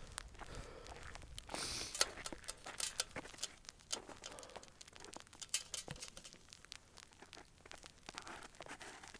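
Irregular crunching and crackling, many small sharp clicks at an uneven pace, with a brief rustling hiss about two seconds in.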